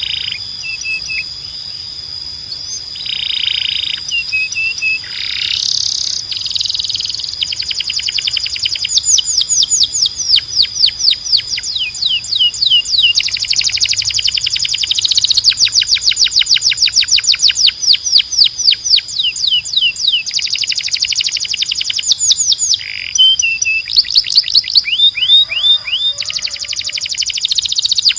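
Canary singing a long song of rapid trills, each a run of quickly repeated falling notes, broken now and then by short harsh, buzzy notes.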